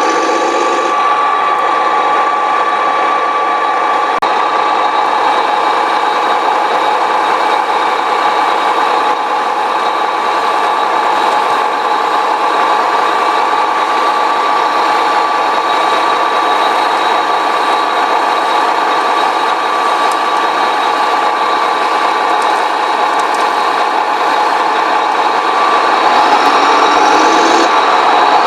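Radio-controlled model construction vehicle running with a steady mechanical whine and rattle, getting louder and rising in pitch near the end.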